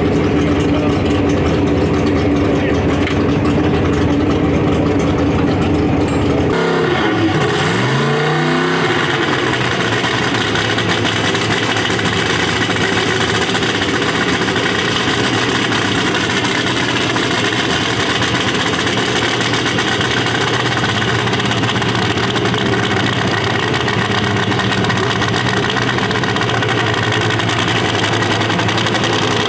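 A racing engine running steadily. About six and a half seconds in, the sound changes abruptly, its pitch briefly dropping and coming back up, then it runs on evenly at a brighter, higher tone.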